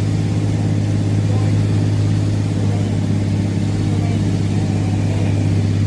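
Cessna light aircraft's piston engine and propeller running at a steady, even drone.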